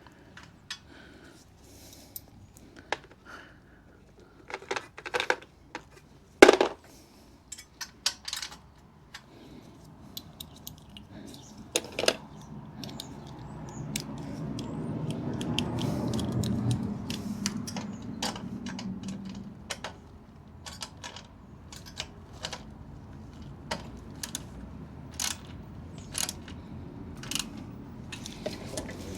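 Scattered metallic clinks and clatters of tools and exhaust parts being handled, with a low rumble that swells and fades in the middle.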